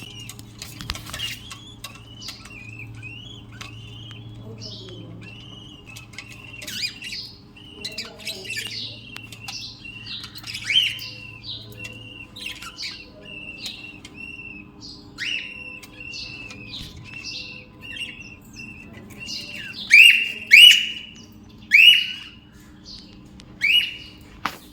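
Budgerigars chattering with many short chirps, and several loud, sharp calls near the end.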